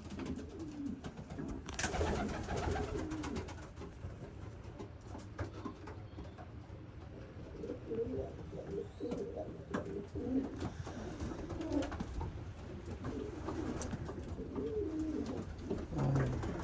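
Domestic racing pigeons cooing in a small loft, several low cooing calls overlapping throughout, with a few light clicks and knocks.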